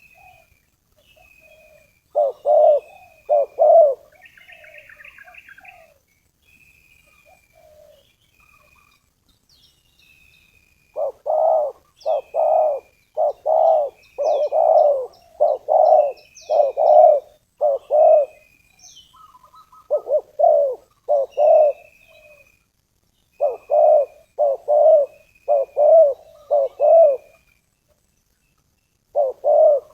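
Spotted dove (tekukur) cooing in runs of repeated coos with pauses between them: a decoy dove calling to draw in wild doves. A smaller bird chirps short high notes throughout.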